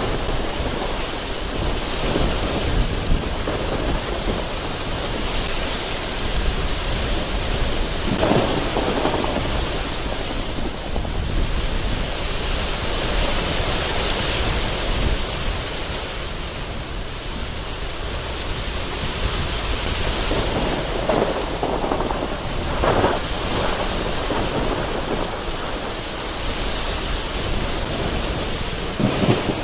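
Very heavy rain pounding steadily against a window during a storm, with gusty wind and thunder rumbling in the background. The rumble swells a few times, about eight seconds in, around twenty-two seconds and near the end.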